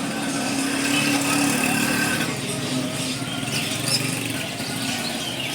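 A motor vehicle engine running with a steady hum, amid street traffic noise.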